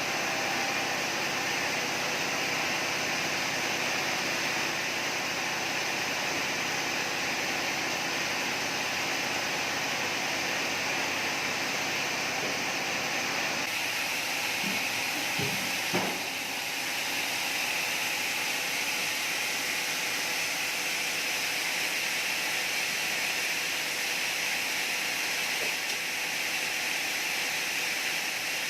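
Sawmill machinery running steadily: a continuous whirring hiss over a low hum. The hum thins out abruptly about halfway through, and a single knock comes shortly after.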